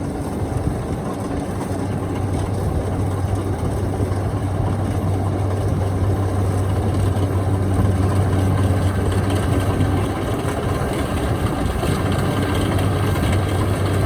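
Kubota DC-73 combine harvester's diesel engine running steadily under harvesting load, a constant low hum that grows slightly louder about halfway through.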